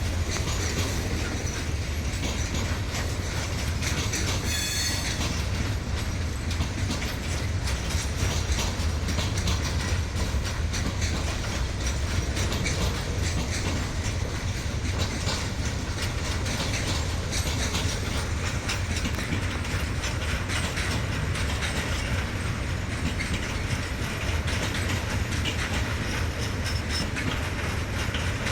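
Freight train rolling past, its wagons clattering steadily over the rails, with a brief high wheel squeal about five seconds in.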